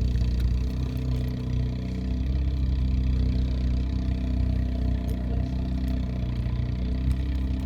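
Car engine running steadily while driving, with a slight change in pitch a couple of seconds in, heard from inside the cabin.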